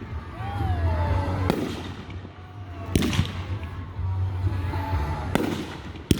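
Aerial fireworks bursting, four sharp bangs a second or two apart, each echoing briefly.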